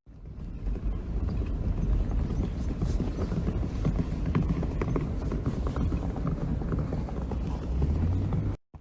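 Hoofbeats of a group of loose horses running over desert sand: many quick, irregular thuds over a low rumble.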